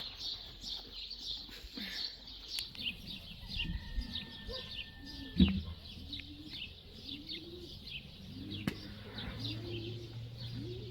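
Small birds chirping continuously in quick high notes. In the second half a low call repeats several times in short arching phrases, and a single knock sounds about five and a half seconds in.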